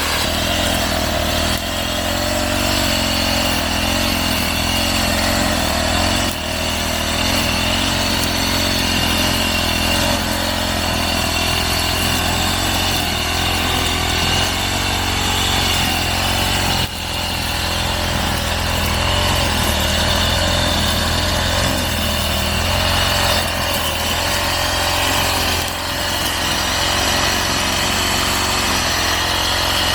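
Petrol brush cutter's small engine running steadily at high speed while cutting grass, its note dipping briefly a few times.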